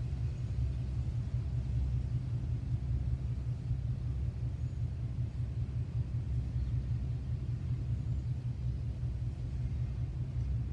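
Steady low rumble of a long mixed freight train of tank cars and containers rolling past on the rails.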